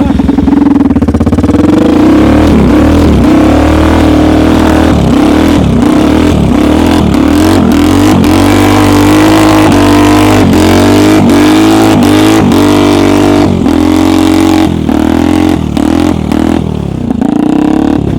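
Homemade snowmobile engine running hard under load, its pitch dipping and recovering over and over, with scattered sharp knocks and clatter; the revs ease near the end.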